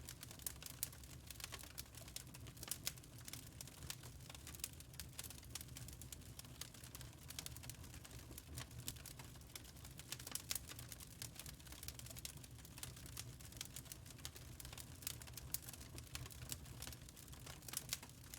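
Fire crackling in a fireplace: irregular small pops and snaps, a few louder than the rest, over a low steady rumble.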